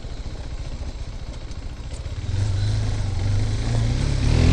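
KTM RC 390's single-cylinder engine on its stock exhaust, running at low revs. It picks up throttle about two seconds in and starts revving up near the end.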